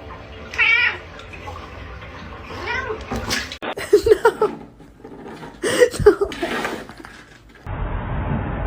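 A domestic cat meowing, four short wavering meows a second or two apart.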